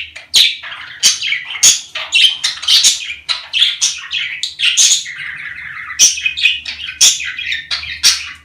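Budgerigars chattering and warbling: a dense, unbroken run of quick chirps and squawky calls, with sharp clicks scattered among them.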